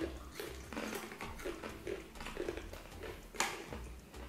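People chewing crunchy fried fish murukku, an irregular run of small crackling crunches, with one sharper, louder crackle about three and a half seconds in.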